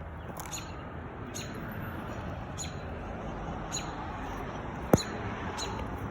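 American robin giving short, high alarm calls about once a second, scolding someone near its nest of eggs. A single sharp knock about five seconds in.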